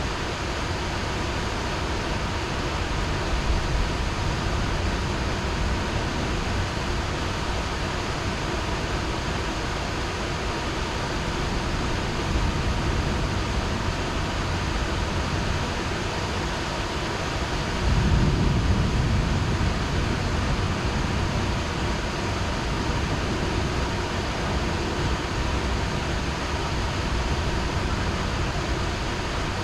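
Heavy rain falling steadily, with a low rumble of thunder that starts suddenly about two-thirds of the way through and fades over a couple of seconds.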